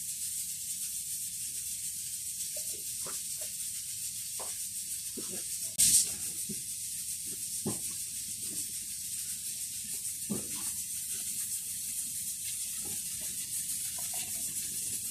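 Mutton and onions sizzling in a frying pan: a steady, even high hiss. One sharp click about six seconds in, the loudest moment.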